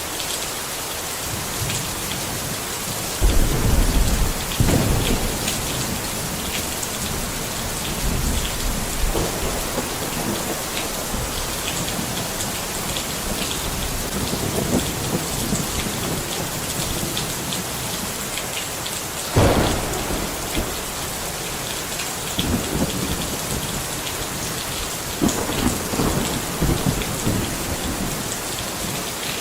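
Steady rain with several low rolls of thunder, including a sharper clap about two-thirds of the way through.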